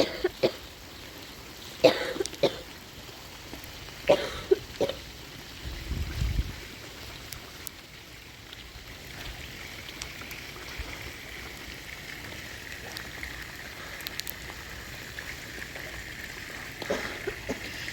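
A person coughing in short fits, about two and four seconds in, over steady rain. A low rumble comes about six seconds in.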